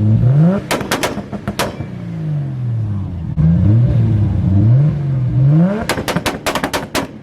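A car engine revved hard twice, each rev ending in a rapid string of loud exhaust bangs, the second string longer.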